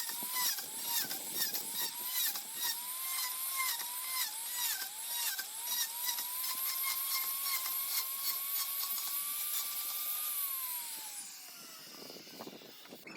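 Electric power tool cutting wood: its whine dips again and again as it bites into the palm wood, then runs free and winds down after it is switched off near the end.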